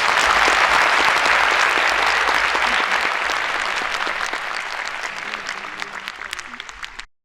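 Audience applauding in a concert hall, a dense clatter of many hands clapping that slowly thins out and then cuts off abruptly near the end.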